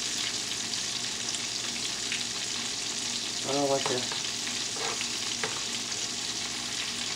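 Porgy and zucchini slices frying in hot oil in a skillet, a steady sizzle with scattered crackles, while metal tongs move the pieces with a few faint clicks. A brief vocal sound is heard about three and a half seconds in.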